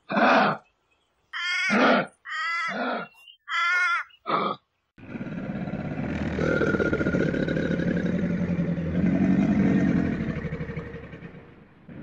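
About six short, separate animal calls over the first five seconds, then a long, low growling rumble with a fast pulsing texture from a crocodile, fading near the end.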